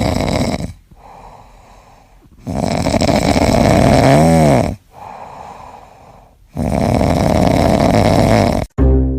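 A pet snoring loudly: three long rasping snores a few seconds apart, with quiet breaths in between.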